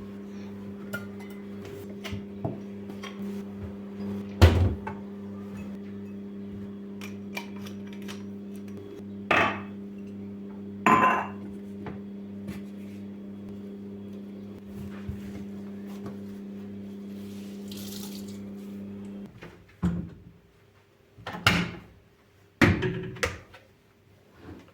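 Dishes and kitchenware clinking and knocking as they are handled, with several sharp clatters, over a steady electrical hum that cuts off about 19 seconds in.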